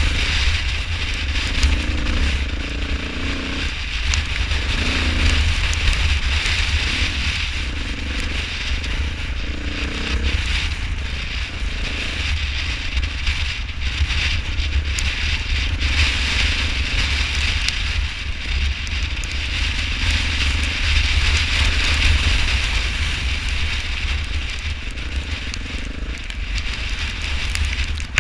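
Wind buffeting the microphone during the ride, with a dense crackling patter of hail striking and a faint low hum that rises and falls underneath.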